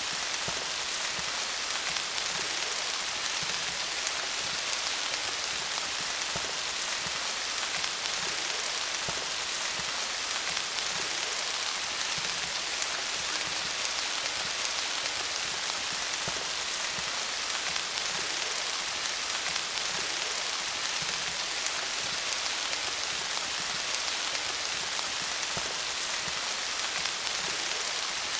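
Steady rain falling on leaves: a dense, even hiss of many small drop patters, with no breaks.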